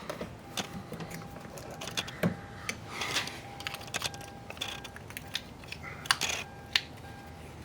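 Scattered small clicks, taps and short scrapes of parts being handled and fitted inside a car door while an exterior door handle assembly is refitted.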